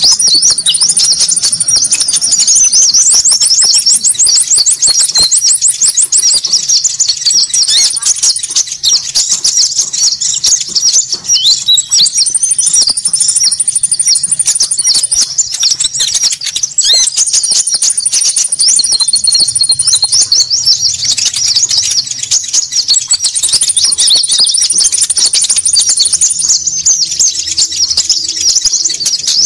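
Bird-lure recording of konin birds: dense, noisy high-pitched chattering and chirping from several birds calling over one another, with a higher trill that returns every few seconds.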